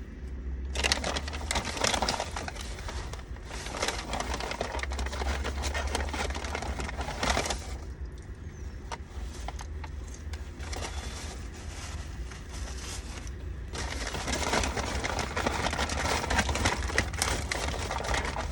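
Paper food packaging crinkling and rustling close up, in two long stretches of dense crackling, with a quieter gap in between.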